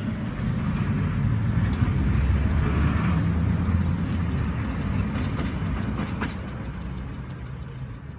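Low vehicle rumble and road noise picked up by a dashcam, swelling over the first couple of seconds and then slowly fading.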